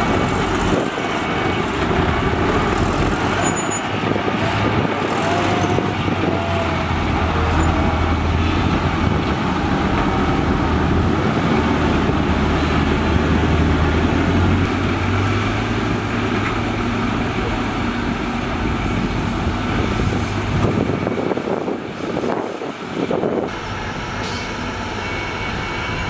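Heavy diesel construction machinery running steadily, a deep engine drone under a broad mechanical din; the drone drops away about three-quarters of the way through.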